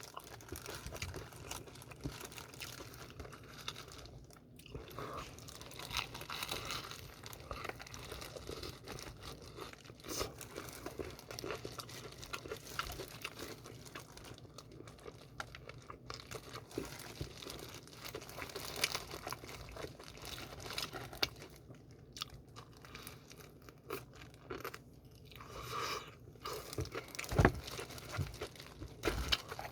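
A person eating BHC Bburinkle fried chicken close to the microphone: chewing and crunching on the seasoned crust, with small clicks and rustles and a few short pauses. One louder knock comes near the end.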